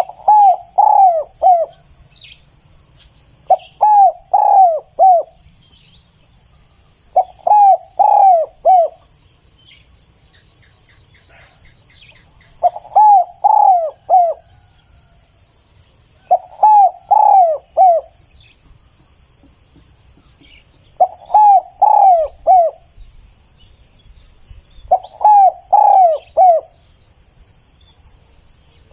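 Spotted dove cooing: seven phrases of four or five short coos each, repeated every three to five seconds. Insects trill faintly and steadily throughout.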